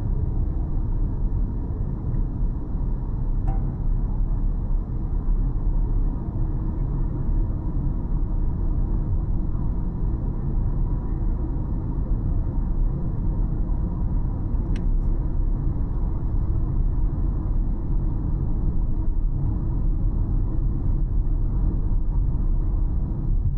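A car on the move: steady low road rumble from the tyres and engine, with two faint ticks about 3.5 and 15 seconds in.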